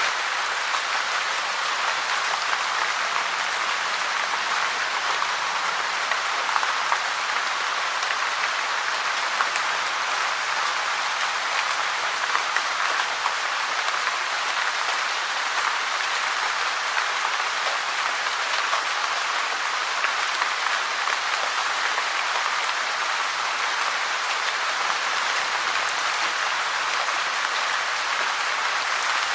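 Steady rain: a dense, even hiss with small scattered drop ticks, unchanging throughout.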